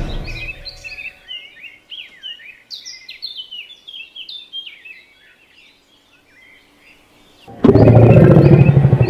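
Small birds chirping and warbling for about five seconds, then a short lull. A loud, deep, growling T-rex roar sound effect cuts in suddenly near the end.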